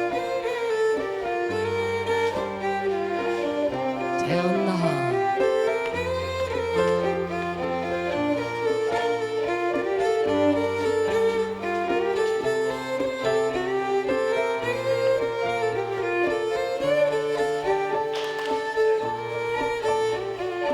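Live contra dance band playing a dance tune, a fiddle carrying the melody over a low bass line that steps between held notes.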